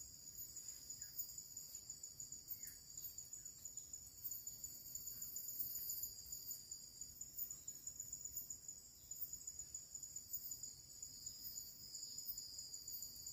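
Faint, steady high-pitched chorus of forest insects trilling, with quick repeated pulses above it.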